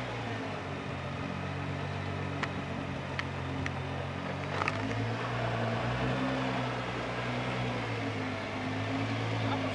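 Nissan GT-R's twin-turbo V6, with a Switzer P600 tune, idling steadily with no revs. A few faint clicks sound in the middle.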